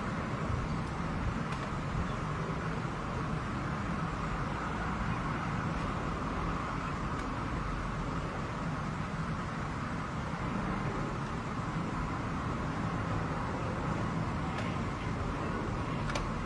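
Steady outdoor background noise, a low rumble under an even hiss, with a few faint clicks near the end.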